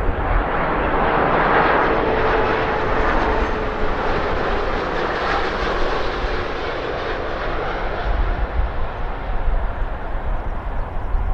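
Jet airliner's engines running as the plane moves past: a steady, loud rush of noise with a faint whine in the first few seconds, and a deep rumble that grows near the end.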